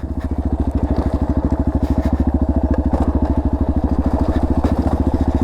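Dirt bike engine running at low, steady revs, its firing pulses evenly spaced, while the bike rolls slowly down a steep, rocky descent.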